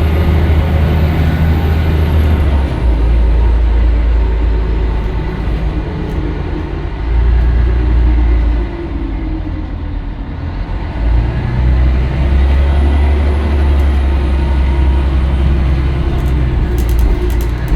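Scania L113CRL bus's diesel engine running, its low drone shifting in pitch several times. It eases off about halfway through, then pulls strongly again.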